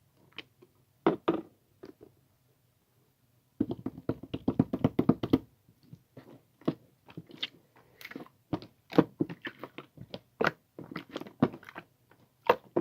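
Irregular crisp crunching and clicking sounds, a few at first, then a dense run of them for about two seconds, then scattered ones.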